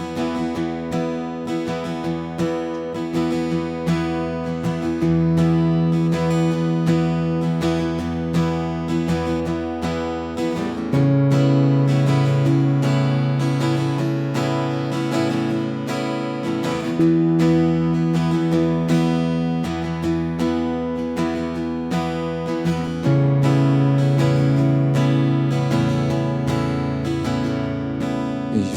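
Acoustic guitar strummed in a steady rhythm as the instrumental intro of a song, changing chord about every six seconds.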